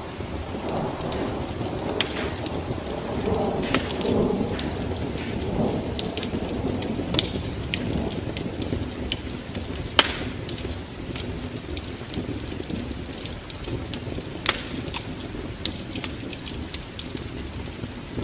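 Wood fire crackling in a fireplace: irregular sharp pops and snaps, loud ones about two seconds and ten seconds in, over a steady low rushing noise.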